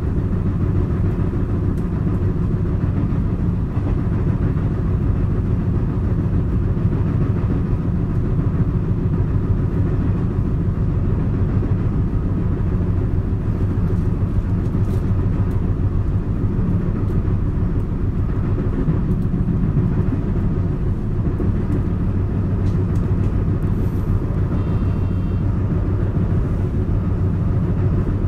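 Running noise inside a JR West 223 series electric train's motor car at a steady pace: a continuous low rumble of wheels and running gear on the rails. Mixed in is the abnormal knocking of a flat spot on a wheel.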